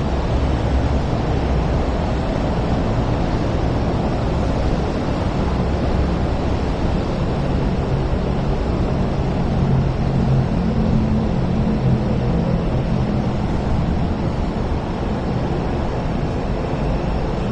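MTR Kwun Tong Line electric train running past on an elevated track over a steady background of city traffic noise, with a low hum that swells in the middle as it goes by.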